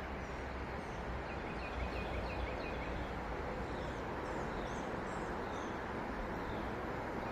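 Steady hum of traffic on a nearby road, with small birds chirping faintly over it: a run of short chirps in the first few seconds and thin falling calls later.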